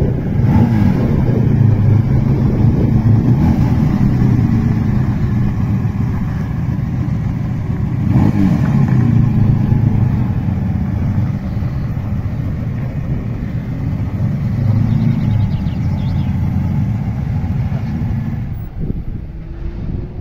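Vintage Ferrari convertible's V12 running at low speed as the car pulls away, with the pitch swelling on light throttle about a second in, again around eight seconds and around fifteen seconds.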